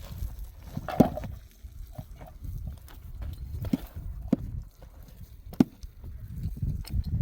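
A few sharp knocks at irregular intervals over a steady low rumble.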